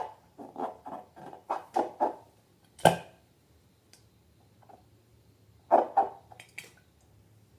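Balloon and slime handling: a quick run of short rubbery sounds, about three or four a second, then one sharp snap about three seconds in, and a few more short rubbery sounds near the end.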